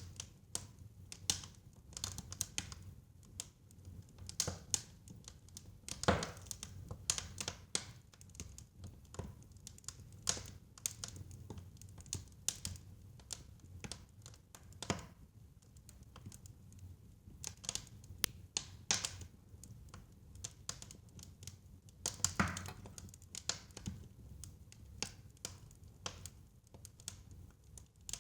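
Wood fire crackling in a fireplace: irregular clicks and pops with a few louder snaps, over a low steady rumble.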